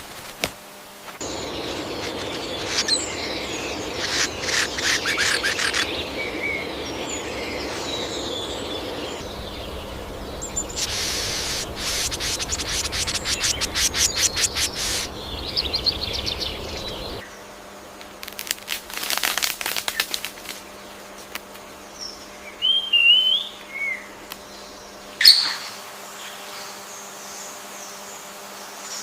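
Rainforest ambience with several bird calls over a steady hiss: bouts of fast rattling trills, a short warbling whistle and one sharp call near the end.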